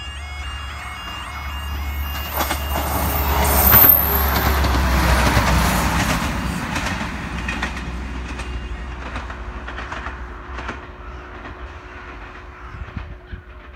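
Level crossing warning alarm warbling briefly at the start, then a Class 158 diesel multiple unit passes close by. Its engine and wheel noise build to a peak about four seconds in, then fade as it runs away, with clicking over the rail joints and a steady tone that lasts to the end.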